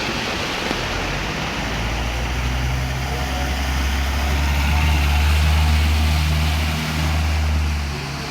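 A motor engine running with a low, steady hum that swells to its loudest about halfway through and dips briefly twice near the end, over a steady rushing noise.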